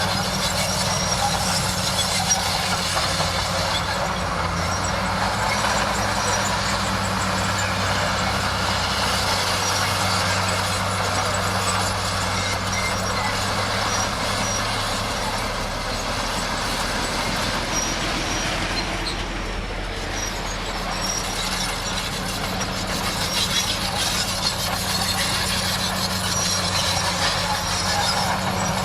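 Bulldozer's diesel engine running steadily under work, with a constant low engine hum and a dense mechanical clatter over it.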